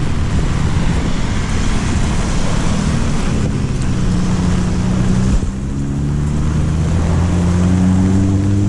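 Heavy rain and rushing noise, joined about three seconds in by a motor vehicle's engine whose pitch climbs slowly as it speeds up.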